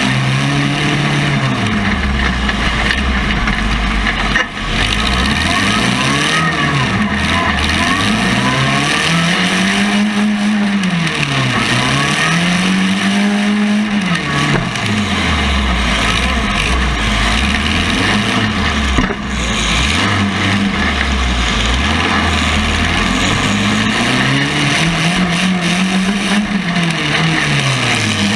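Compact race car's engine revving up and falling back again and again, rising and falling in pitch every few seconds, over steady road and wind noise, with two brief lifts off the throttle.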